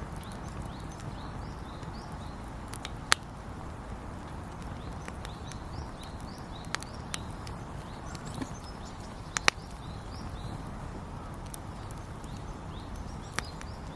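Wood campfire burning with a steady low rush and occasional sharp crackles and pops, the loudest about three seconds and nine and a half seconds in.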